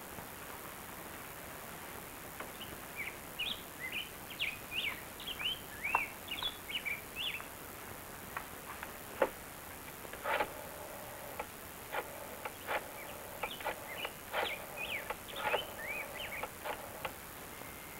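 Birds chirping in many short calls that rise and fall in pitch, with scattered sharp clicks through the second half.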